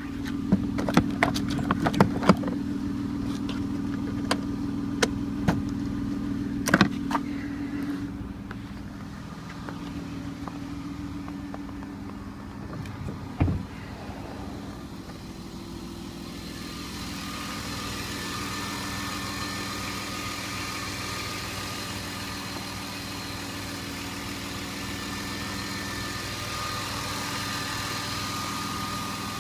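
BMW E34 520i straight-six engine idling steadily, with no lifter tapping: its hydraulic lifters have quieted after an oil additive was added. A few sharp clicks come in the first several seconds and a single knock about halfway through.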